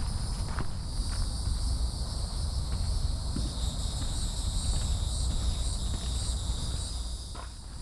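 A steady, high-pitched insect chorus, several layers of shrill calling running on without pause, over a low rumble on the microphone and a few faint clicks.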